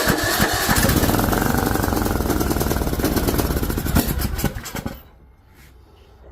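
Craftsman T1600 lawn tractor's engine running on its new carburetor just after starting. It fires unevenly for about a second, then runs fast and steady, and stops about five seconds in.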